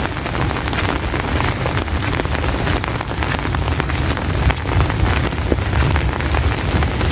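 Heavy rain falling steadily, thick with close individual drop hits, over a continuous low rumble.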